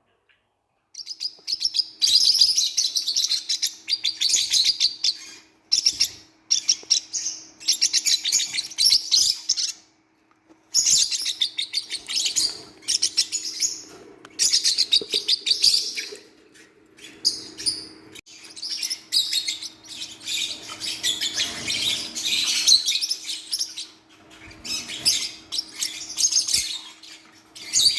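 Newborn forpus parrotlet chicks chirping: bouts of rapid, raspy, high-pitched chirps broken by short pauses, with a faint steady hum underneath.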